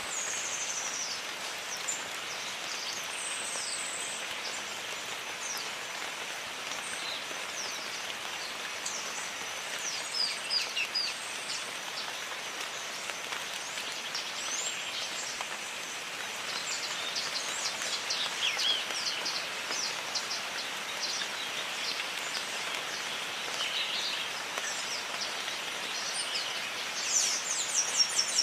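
Steady rain falling in a jungle, with birds chirping over it in quick high bursts, busiest about ten seconds in and again near the end.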